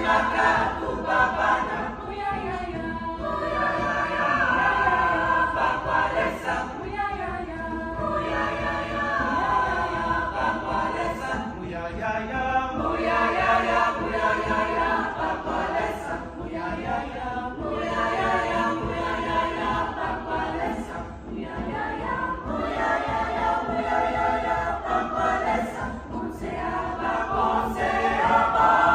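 High school choir singing in several parts, the voices swelling and easing in loudness and growing loudest near the end.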